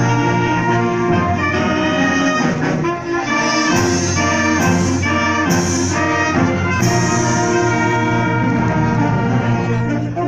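Symphonic wind band playing, with the brass section to the fore. Four sharp accented hits come in the middle.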